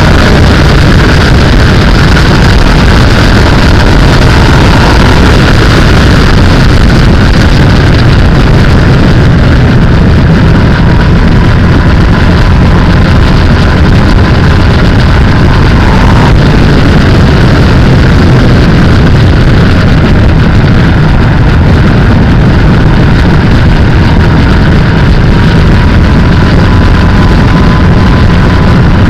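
Sportbike engine running steadily at road speed under heavy wind rush on the microphone, with a faint steady whine throughout.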